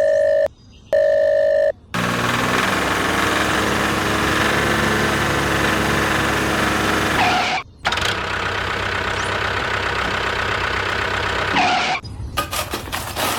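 Two short horn beeps, then a small engine running steadily and loudly, cutting out for a moment a little before the middle and picking up again. Near the end it breaks into a rapid stuttering rattle.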